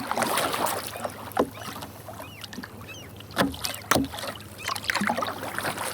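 Kayak paddling: the paddle blades dipping and pulling through calm water, with splashing and dripping. A few sharp knocks, about one and a half, three and a half and four seconds in.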